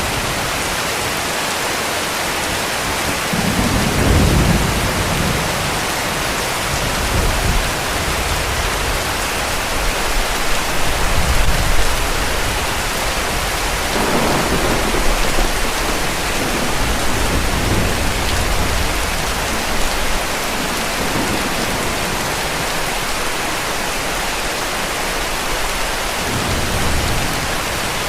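Heavy rain falling steadily, with distant thunder rumbling low several times: the longest rolls come about 4 seconds in and again around 10 to 12 seconds.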